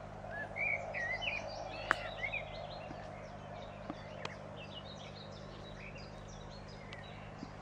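Small songbirds chirping and twittering, a busy run of short rising and falling notes in the first couple of seconds and then scattered calls. A sharp click about two seconds in.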